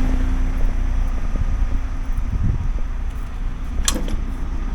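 Truck engine idling with a steady low rumble, heard from inside the cab, with one sharp click near the end.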